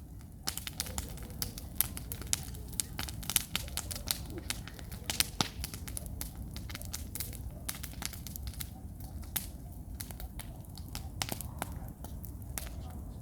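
Wood campfire crackling with many sharp pops and snaps, thickest in the first half: damp firewood bursting as it heats.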